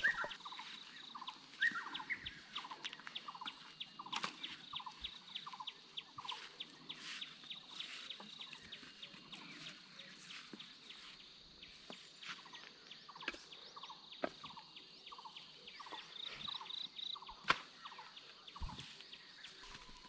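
A bird calling: a short falling note repeated about twice a second, over a high steady trill, with scattered clicks and knocks.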